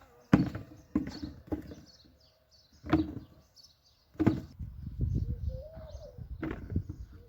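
Dull thuds of a digging tool striking soil during a potato harvest, about five strikes spread over the first four seconds, then low rustling of earth being worked. Small birds chirp throughout, and a dove gives a low cooing call near the end.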